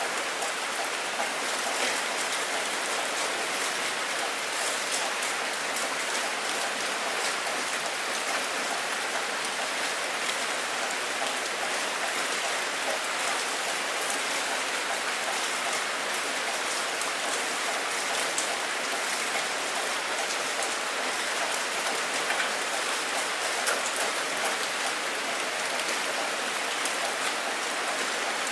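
Steady rain falling, with a dense patter of individual drops striking a surface throughout.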